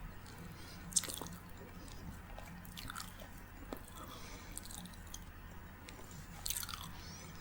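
Close-miked chewing and wet mouth sounds of someone eating, with scattered small clicks and smacks; a sharp click comes about a second in and another burst of smacks near the end.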